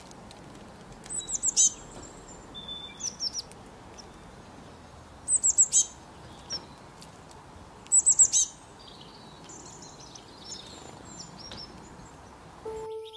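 A small bird calling: a high-pitched phrase of four or five rapid notes given three times, a few seconds apart, with softer calls between, over a steady background hiss.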